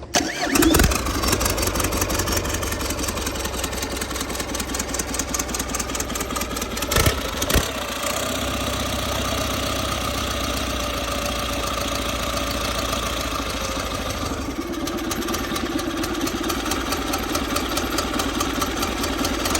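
Rebuilt Caterpillar four-cylinder diesel engine starting up and then running steadily, with a rapid, even firing beat.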